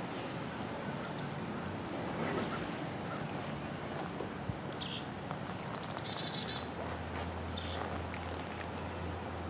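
Wild birds calling: a few short, high chirps that fall in pitch, the loudest a little past the middle and followed by a quick trill.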